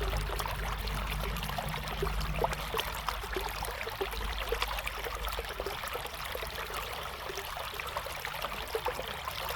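River water flowing steadily, with many small bubbling and splashing sounds over a continuous rush. A low rumble underneath drops away about three seconds in.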